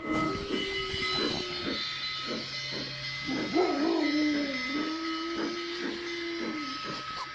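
G-scale model steam locomotive's sound system chuffing, with a short whistle blast near the start and a long whistle blast from about halfway through.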